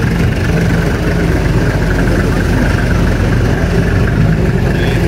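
A vehicle engine idling steadily, a low, even rumble with no revving.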